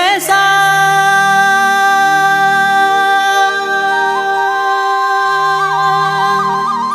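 Kumaoni folk song: a male singer ends a phrase and a long note is held steady over the accompaniment, with an ornamented, wavering melody line coming in about halfway.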